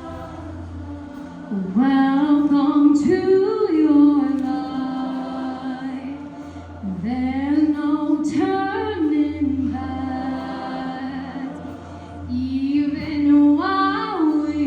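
Show choir voices singing three long phrases without clear words, each sliding upward in pitch at its start, over a steady low held note.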